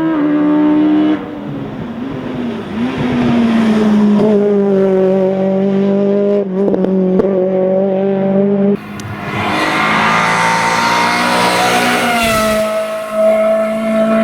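Hillclimb race car engines running hard at high revs, holding a steady pitch with small dips. The sound changes abruptly about a second in and again near nine seconds. Then a car passes close, with a loud rush of noise lasting about three seconds.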